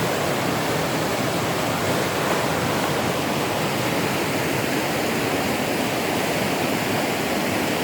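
Creek water rushing steadily over a small falls, an even, unbroken rush.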